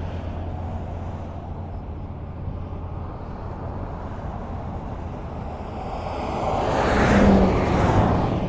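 Highway traffic: a steady rush of tyre and engine noise from passing cars, with one vehicle passing close that swells up and fades, loudest about seven to eight seconds in.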